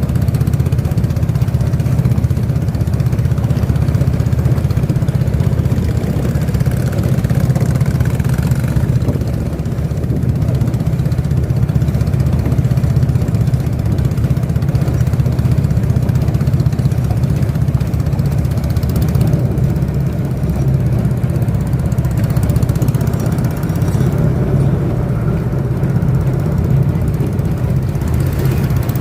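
A motorboat's engine running steadily at an even speed, a constant low hum.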